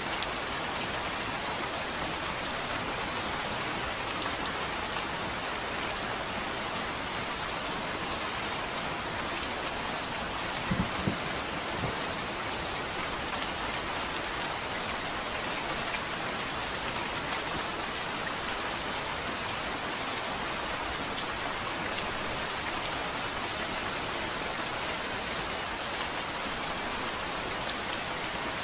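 Steady rain falling on a surface, with scattered individual drop ticks. A brief cluster of two or three louder low thuds comes about eleven seconds in.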